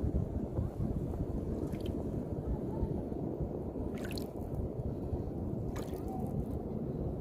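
Wind rumbling on the microphone over sea water washing and gurgling along the shore, with brief splashes about two, four and six seconds in.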